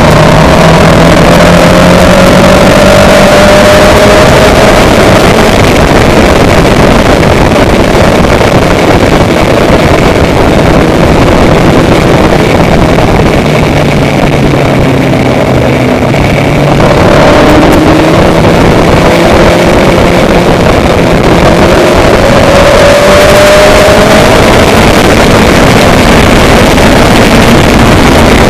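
Loud engine running with wind buffeting the microphone; a few faint engine tones slowly slide up and down in pitch.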